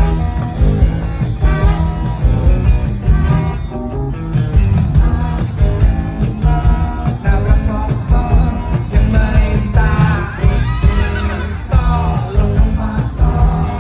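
Live rock band playing loudly, with strong bass and drums and a sung vocal line.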